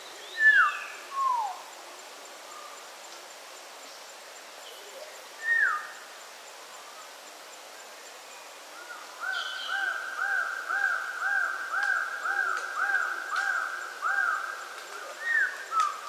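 Hooded pitohui calling: clear falling whistles, a pair about half a second in and another near six seconds, then a fast run of rising-and-falling whistled notes, about two and a half a second for some five seconds, and more falling whistles near the end, over a faint steady background hiss.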